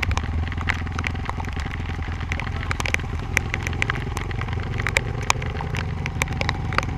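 Dirt bike engine idling steadily, with scattered sharp clicks over it.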